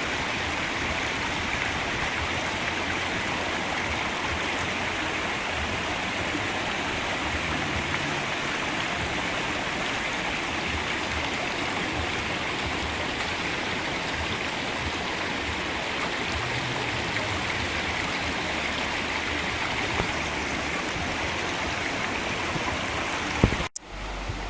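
Khiri Wong waterfall's stream rushing steadily over rocks. It cuts off abruptly with a click near the end.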